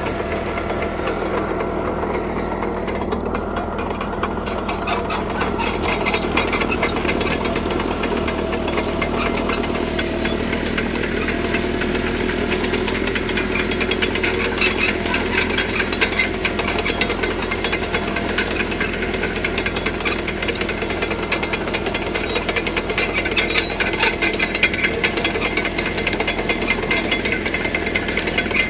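CAT D3K crawler bulldozer working: its diesel engine runs steadily under load while the steel tracks and blade clatter and rattle continuously as it pushes gravel.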